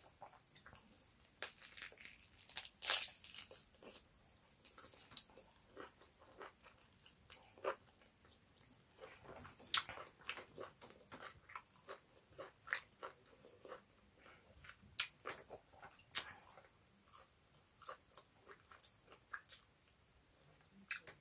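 Close-up eating sounds of a person biting and chewing meat off the bone: irregular wet mouth clicks and smacks, with louder bites about 3 s and just under 10 s in.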